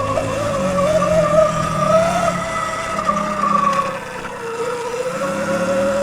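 Dirt bike running as it is ridden, its motor note a steady whine that wavers up and down in pitch and eases off briefly about four seconds in.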